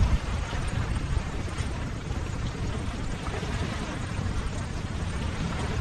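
Ocean waves: a steady wash of surf, heaviest in the low end.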